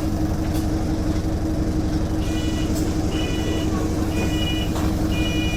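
Bus engine running steadily, a constant droning hum heard from inside the bus. From about two seconds in, a short electronic beep repeats roughly once a second.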